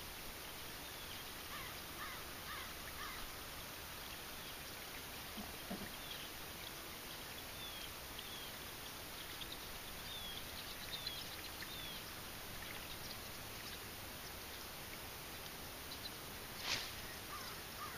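Quiet outdoor ambience over calm water with faint, scattered bird chirps. A single sharp click comes near the end.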